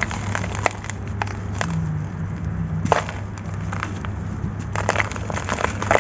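Dry, gritty sand-cement chunks crunching and crumbling: scattered sharp crackles, one stronger snap about halfway, and a denser run of crackles near the end.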